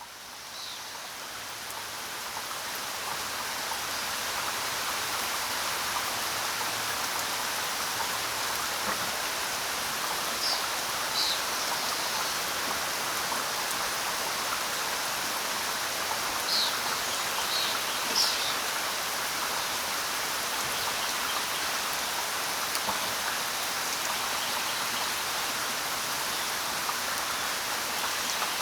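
Steady heavy rain falling, fading in over the first few seconds and then holding even, with a few short high chirps about a third of the way in and again past halfway.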